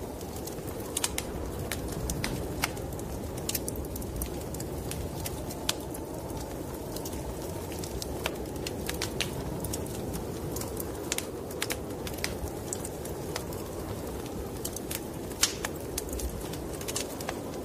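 Wood fire in a fireplace crackling, with irregular sharp pops scattered throughout, over a steady low rumble of snowstorm wind.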